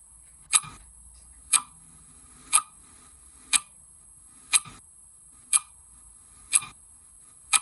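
Clock ticking steadily, one sharp tick each second, over a faint steady high hiss.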